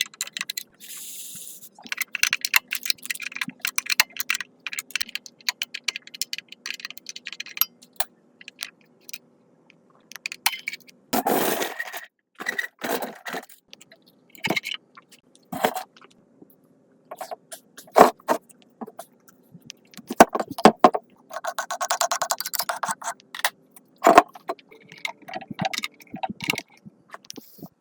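Metal tools and parts clinking, tapping and scraping as they are handled, with a longer, louder scrape about eleven seconds in and another scraping stretch a little past twenty seconds.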